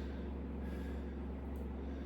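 A steady low hum, with a few faint brief breath-like sounds on top.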